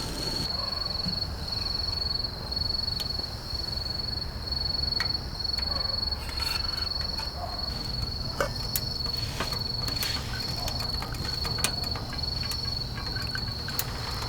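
A cricket chirping, a high note repeating at an even pace, over a low steady rumble. Scattered sharp crackles come from the wood fire burning in the stove.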